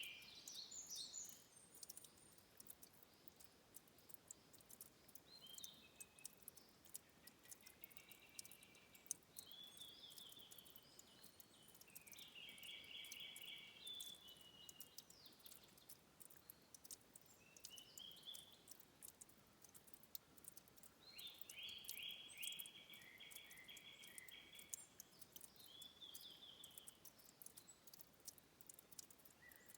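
Songbirds singing faintly in forest, short trilled phrases every few seconds, with the longest runs of rapid repeated notes about twelve and twenty-one seconds in. A steady scatter of soft high ticks runs beneath them.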